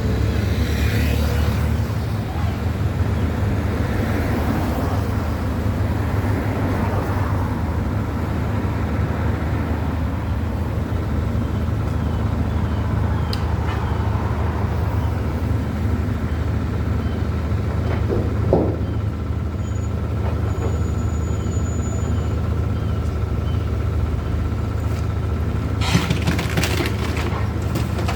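Steady low rumble of heavy diesel vehicles or machinery with road traffic, and a short burst of knocks and clatter near the end.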